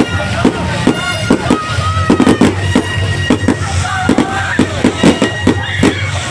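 Fireworks going off in quick succession: repeated sharp bangs and crackles, several a second, mixed with whistling tones that glide up and down.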